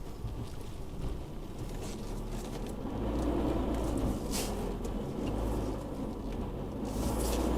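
Isuzu D-Max V-Cross pickup's engine running low and steady as the truck crawls over rough ground, rising twice under throttle, with two brief sharp noises, one about halfway through and one near the end.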